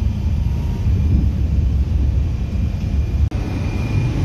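Steady low rumble of a high-speed train running at speed, heard from inside the passenger car. There is a brief dropout about three seconds in, after which a faint steady high whine sits over the rumble.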